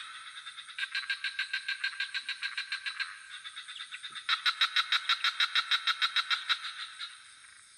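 Chorus of frogs calling in rapid pulsed trills, about nine pulses a second, in bouts of two to three seconds, with a pause between bouts a little past three seconds in. A steady high-pitched insect drone runs underneath.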